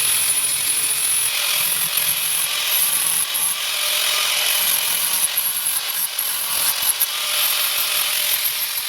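Handheld power grinder running steadily against the chrome-plated steel rear bumper of a 1949 Chevrolet, with irregular sharp scrapes as the disc bites. It is taking the chrome off the metal.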